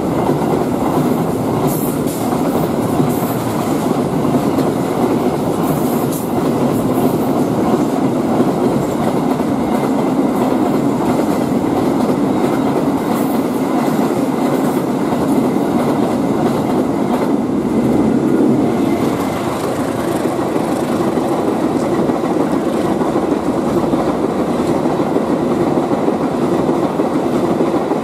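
Container freight train passing close by at speed without stopping, its wagons' wheels rumbling and clattering steadily over the rails.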